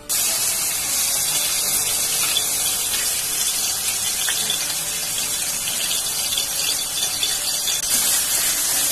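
Onion paste sizzling in hot refined oil in a metal kadai, the loud hiss starting abruptly as the paste drops in. The hiss holds steady and grows a little louder near the end as the paste is spread with a metal spatula.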